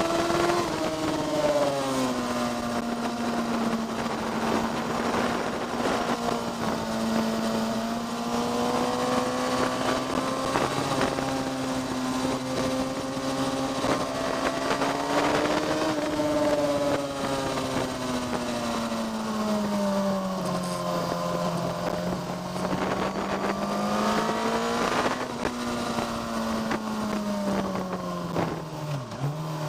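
Onboard engine note of a vehicle on a track lap, held at fairly steady revs with slow rises and dips in pitch, then falling near the end as it slows.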